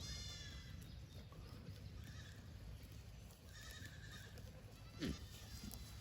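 Fainting goats bleating on pasture: a high bleat right at the start, a fainter one about three and a half seconds in, and a short louder low call that falls in pitch about five seconds in.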